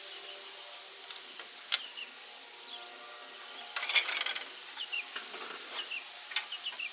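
Scattered sharp clicks and clinks of hand work, with a short clattering run about four seconds in, over a steady hiss and faint short chirps.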